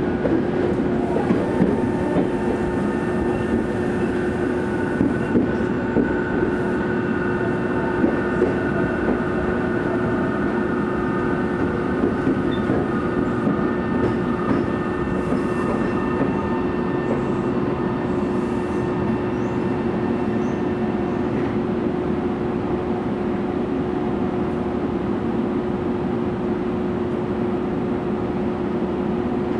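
Tokyo Metro 03 series train heard from inside a passenger car: a steady running rumble with the constant tones of its four-quadrant chopper control, and wheels clicking over rail joints, mostly in the first half. Near the end the train runs alongside a station platform toward a stop.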